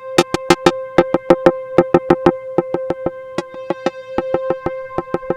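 Layered software synthesizer patch playing: a held tone under quick, sharp, clicky percussive notes repeating about four to five times a second.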